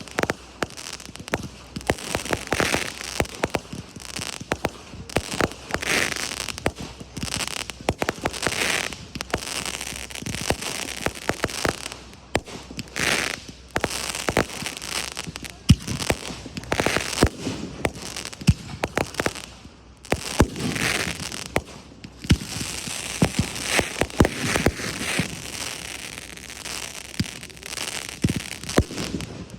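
Fireworks display: a steady run of sharp bangs from bursting shells, with crackling washes between them.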